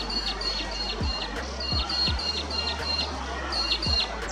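A bird chirping: quick runs of short, high, falling notes with brief breaks between them, over background music with low bass notes.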